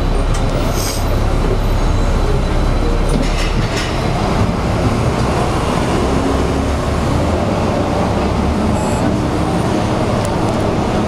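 A train running on the rails with a loud, steady rumble. There are a few faint high clicks in the first seconds, and the deepest part of the rumble drops away about four seconds in.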